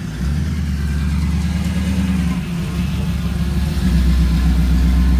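A car engine running close by, with a low rumble that starts just after the opening, eases slightly in the middle and grows louder again about four seconds in.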